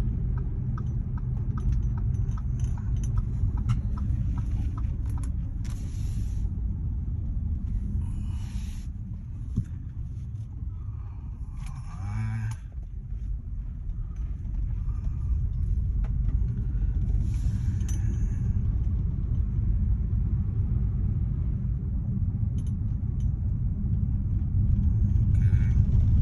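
A truck on the road: steady low rumble of its engine and road noise while driving, with brief hissing swells several times.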